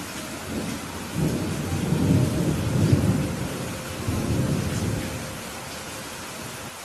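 A roll of thunder over steady rainfall: a low rumble builds about half a second in, is loudest two to three seconds in, swells once more, and fades out about five seconds in, leaving the rain hiss.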